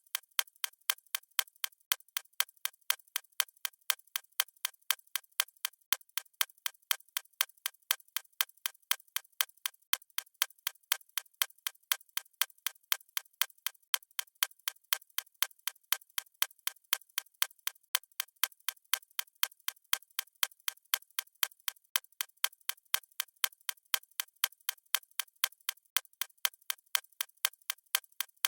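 Clock ticking steadily, an unbroken run of sharp, evenly spaced ticks.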